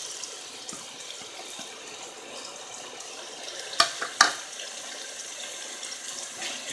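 Chopped tomatoes and onions sizzling steadily in oil in an aluminium pot. Two sharp clinks a little after halfway come from a spoon knocking as garlic-ginger paste is scraped off a plate into the pot.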